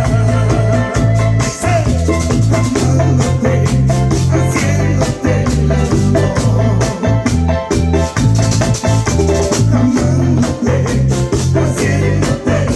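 Latin dance band music: a repeating bass line with a rattling shaker keeping an even beat and keyboard chords.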